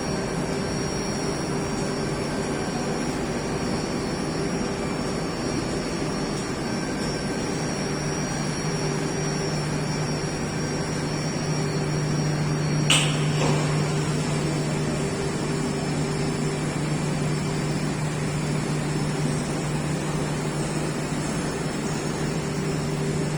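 Yilmak RF 130 industrial washing machine (1300-litre drum) running with a 20 kg load of garments, giving a steady low hum. One sharp knock comes a little past halfway.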